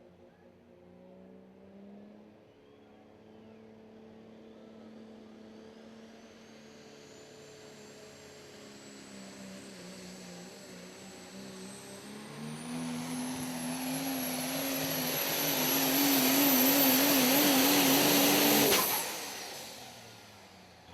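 Super stock diesel pulling truck on a pull: the engine's drone and a high turbocharger whine climb in pitch and grow steadily louder to a peak, then cut off abruptly near the end.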